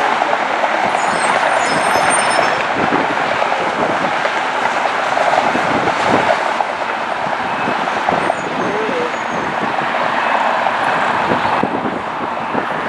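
Jet airliner engines roaring, a steady loud rush that holds at an even level, with faint high whistling tones in the first couple of seconds.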